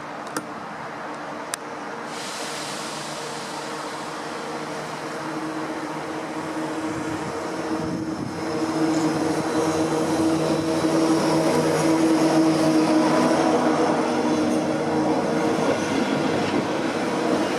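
SŽ class 363 electric locomotive approaching and passing with a freight train: a steady hum with several held tones from its traction motors and blowers, growing louder and loudest in the second half. A few sharp clicks come in the first couple of seconds.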